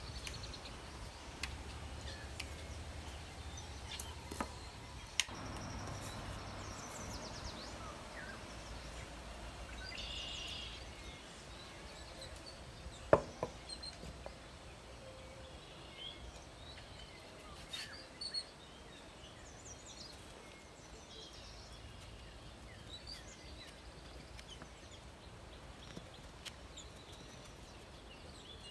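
Quiet ambience with scattered knocks and clicks, one sharp knock a little before halfway, and faint bird chirps.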